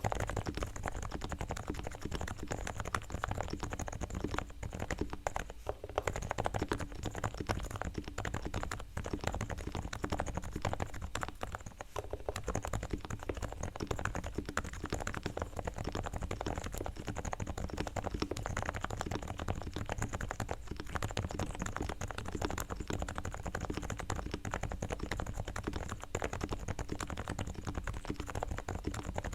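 Realforce R3 TKL silent-switch keyboard (Topre electrostatic capacitive, 45 g) being typed on continuously, a fast, dense run of soft, muted keystrokes. The board is fully tuned: sliders and springs lubed with Krytox, stabilizer wires straightened and lubed, and Thinsulate sound dampening fitted inside.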